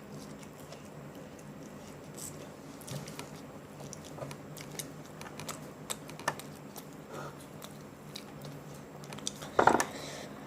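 Close-up chewing of hot and spicy chicken: scattered small crunches and wet mouth clicks, with one much louder crunch or knock near the end.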